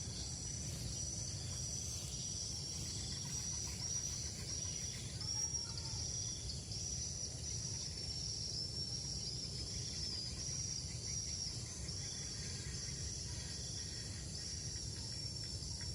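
Insects calling in a steady high-pitched pulsing chorus, repeating a little more than once a second, over a low outdoor rumble.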